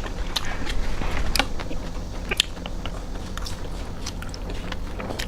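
A person eating close to the microphone: biting and chewing, with irregular sharp clicks and smacks.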